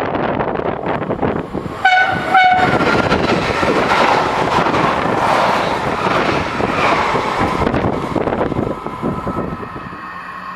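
A double-deck electric regional train sounds its horn in two short blasts about two seconds in, then passes at speed close by with loud wheel and rail noise. The noise dies down near the end, leaving a steady whine.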